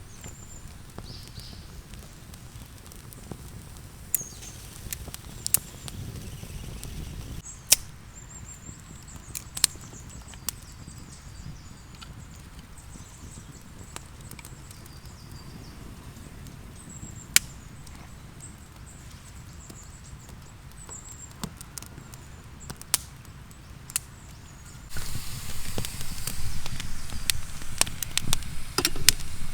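Wood campfire crackling with scattered sharp pops, while small birds call now and then. About 25 seconds in, food starts sizzling loudly in a pan over the fire.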